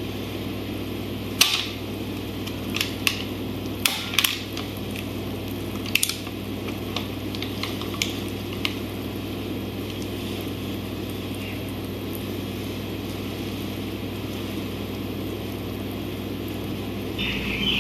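Kitchen work: a steady low appliance hum, with light clicks and taps of utensils against dishes, most of them in the first half.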